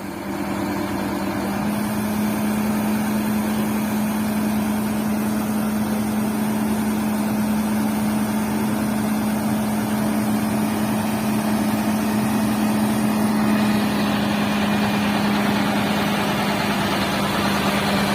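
Heavy vehicle engine running steadily at the recovery site, its hum stepping up slightly in pitch about two seconds in, as if brought to a higher, held speed.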